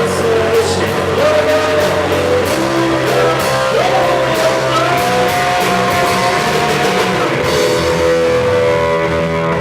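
Rock band playing live: electric guitar, bass and drum kit with cymbal hits, under a melody line that slides between held notes.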